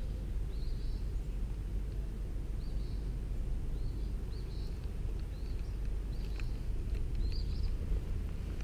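A bird chirping, a string of short, slightly rising chirps repeated about once a second, over a steady low rumble.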